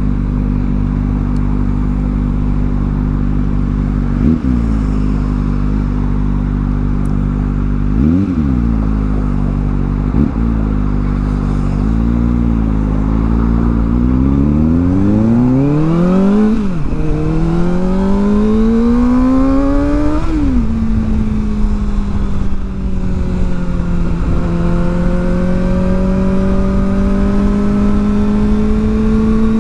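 Kawasaki ZX-4R's inline-four engine through an aftermarket exhaust, running steadily with a few short throttle blips, then pulling hard with rising revs and two upshifts before settling into a steady cruise.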